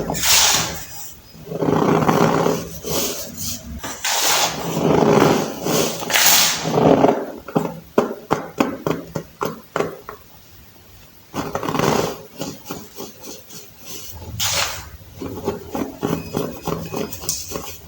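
Baked baking soda being crushed, in repeated surges of loud crunching and squeaking with fine crackles between them.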